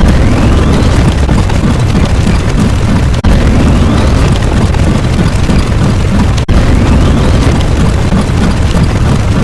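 A loud, rumbling, explosion-like sound effect, looped three times at about three-second intervals, with a brief break before each repeat. A faint rising whistle runs through each repeat.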